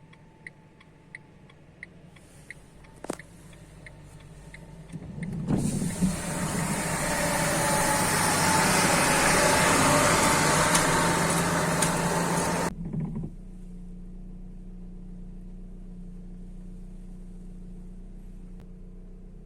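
Vehicle sounds: a sharp ticking about twice a second, like a turn-signal relay, for the first few seconds. A loud rushing noise builds up, holds for about seven seconds and cuts off suddenly. A steady low engine hum is left.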